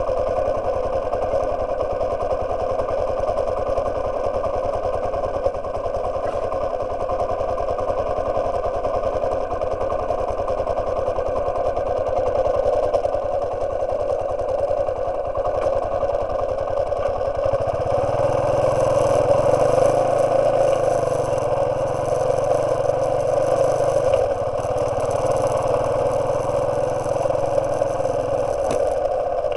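Yamaha Serow 225's single-cylinder four-stroke engine running steadily while the bike is ridden along. A little past halfway a deeper low rumble joins and it grows slightly louder.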